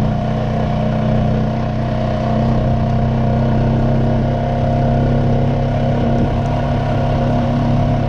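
Honda Rancher four-wheeler's engine running at a steady speed while riding, with small shifts in pitch.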